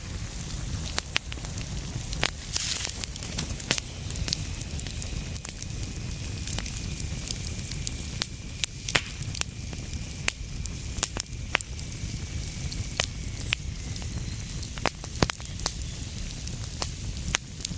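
Fireplace fire crackling, with frequent sharp pops over a low steady rumble. A faint thin high whistle runs through the middle.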